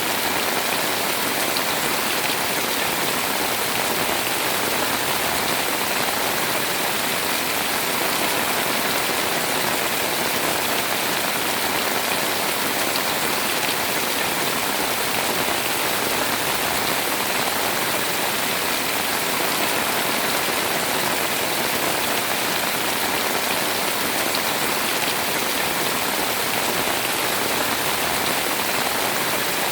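Heavy rain pouring steadily, a dense, even hiss of drops on surfaces.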